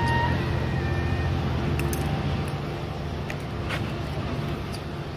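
A diesel-hauled Amtrak passenger train pulling away: a steady low engine rumble that slowly fades as the train recedes, with a few faint clicks.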